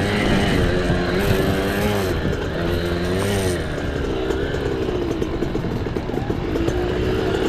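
Mini bike engine being ridden off-road, its pitch rising and falling with the throttle. Rattling knocks join in about halfway through.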